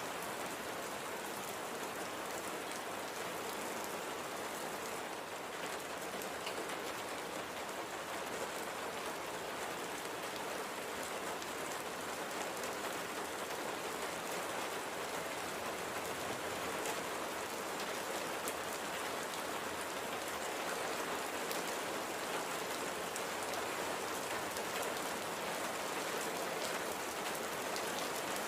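Steady light rain falling, an even hiss with fine scattered drop ticks.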